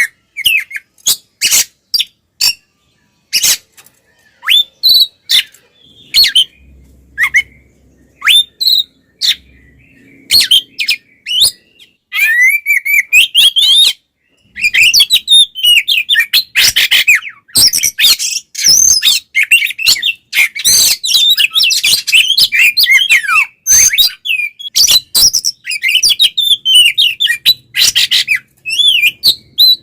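Oriental magpie-robin (kacer) singing loudly in an agitated, fighting-mode song: sharp, separate notes for the first dozen seconds, then about twelve seconds in a dense, rapid run of whistles and chattering notes with little pause.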